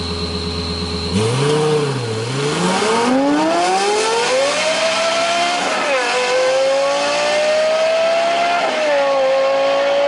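A car engine idling, blipped once, then accelerating hard with a rising pitch, with two gear changes where the pitch drops, about six seconds in and again near the end.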